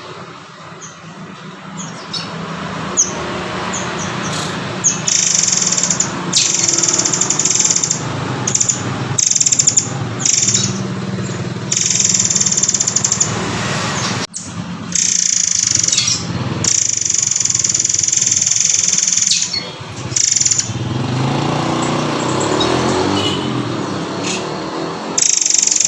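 Murai air (murai kopi) bird singing: a run of harsh, rasping chatter phrases, each about one to two seconds long, separated by short breaks.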